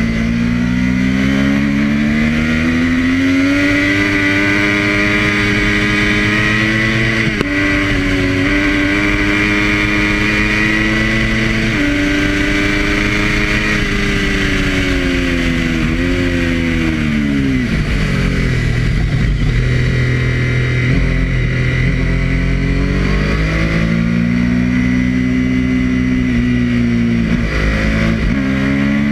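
Triumph Daytona 675's inline three-cylinder engine at speed on track, pitch climbing through the revs with two quick drops for upshifts in the first half. Around the middle the pitch falls away as the bike slows, stays low for a few seconds, then climbs again with another upshift near the end.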